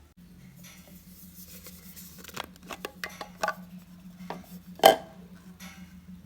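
Small humidifier running with a steady low hum that starts right at the beginning, while its parts are handled with scattered clicks and taps and one louder knock about five seconds in.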